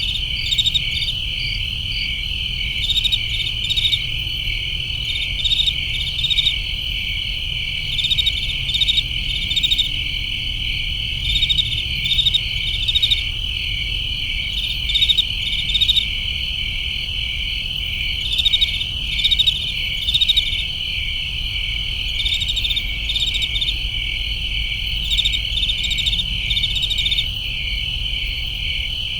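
Crickets chirping: a steady high trill with short runs of louder pulsed chirps every second or two, over a low steady rumble.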